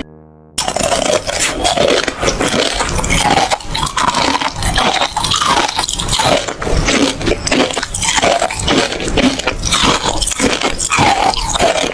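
Close-miked eating: rapid crunching, biting and chewing of food, one bite after another with no pause.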